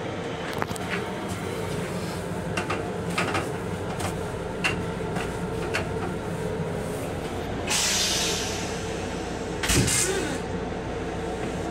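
Steady running rumble of a moving M7 electric railcar heard from inside its restroom, with scattered clicks and rattles. A short hiss comes about 8 seconds in and a louder brief burst near 10 seconds.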